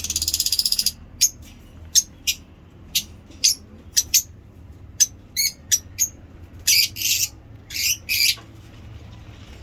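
Lovebirds calling: a rapid chattering trill at the start, then a run of sharp, high-pitched chirps, with two longer harsh squawks about seven and eight seconds in.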